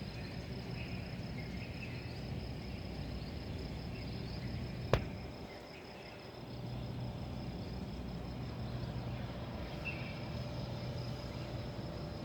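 Steady high insect trill, typical of crickets, with a few brief bird chirps over a low background rumble. A single sharp click about five seconds in is the loudest sound.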